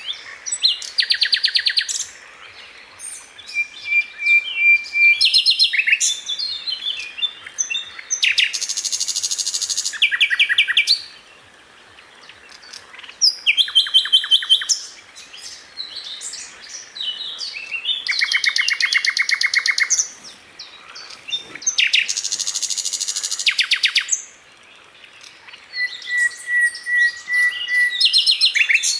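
Sikatan londo flycatcher singing: fast rapid-fire trills of high notes, each burst lasting a second or two, mixed with short twittering phrases and a couple of steady thin whistles, with brief pauses between phrases.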